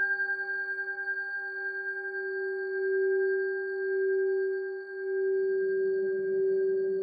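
Singing bowl tuned to G ringing in one long, steady tone with overtones, slowly swelling and ebbing.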